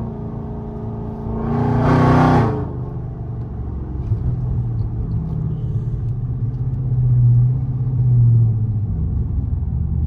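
Supercharged 5.7-litre Hemi V8 of a Dodge Charger R/T running while driving, with a steady low hum. About two seconds in it swells briefly with a short rush of hiss, and it swells twice more in its low note later on.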